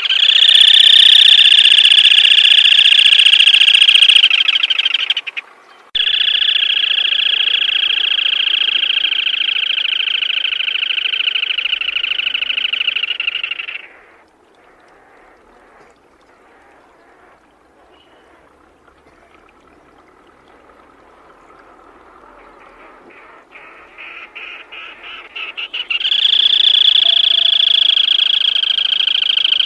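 Black-tailed crake giving its long, rapid, rattling trill in three bouts of several seconds each. Between the second and third there is a quiet gap, and the third builds up from separate notes that speed up into the trill.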